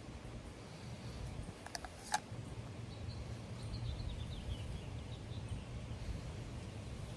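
Wind rumbling on the microphone, with two sharp clicks about two seconds in. A faint run of short, high bird chirps, falling slightly, follows a second later.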